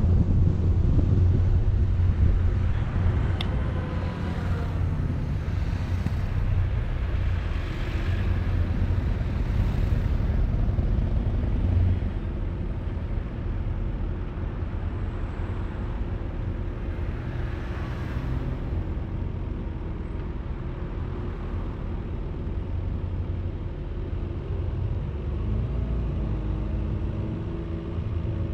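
Vehicle driving: steady low engine and road rumble, with a few brief swells in the first half, settling a little quieter about twelve seconds in.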